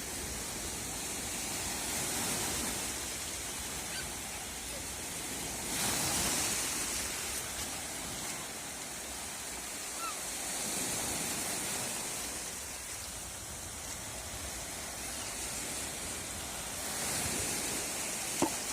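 Sea surf: a steady rush of waves washing ashore, swelling louder every few seconds as each wave breaks.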